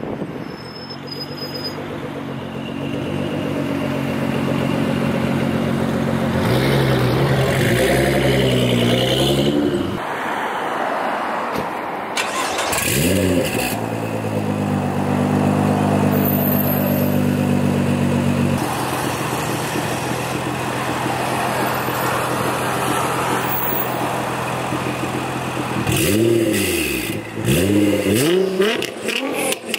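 Tuned Nissan GT-R with a full titanium exhaust, its engine held at raised revs and then revved up and down several times. There is a quick blip about halfway, after which it drops back to a lower, steady idle, and a run of short, sharp blips comes near the end.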